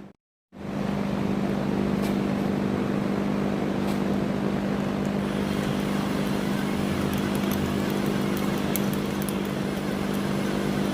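Milwaukee cordless drill motor running steadily under load, drilling into the steel rear trunnion of an AK-pattern pistol, after a brief dropout at the start.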